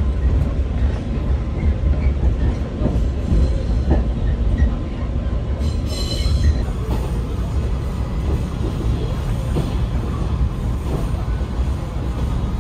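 Running noise heard inside a moving train carriage: a steady low rumble of the wheels on the rails with scattered faint clicks, and a brief high squeal of the wheels about six seconds in.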